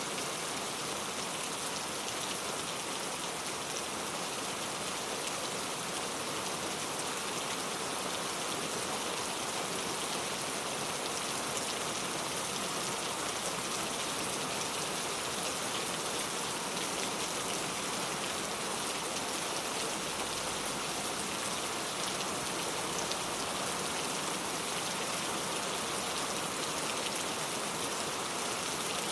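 Steady rain falling, a constant hiss with fine scattered drop ticks throughout.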